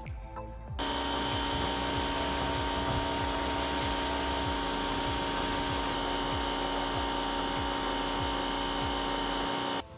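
An electric motor-driven machine runs at a steady pitch with a constant whine, starting about a second in and cutting off suddenly near the end. Background music continues underneath.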